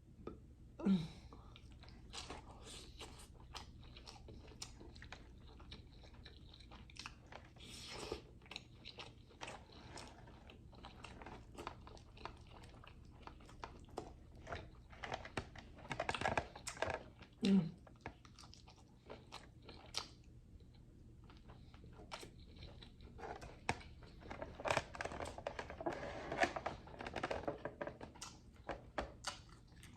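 A person chewing and biting food close to the microphone, with many small crunching and clicking mouth sounds throughout and a few louder bites.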